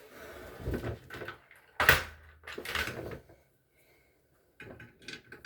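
Knocks and clatter of hard parts being handled. The loudest is a sharp knock about two seconds in, followed by a short scrape or rattle and then a few light clicks near the end.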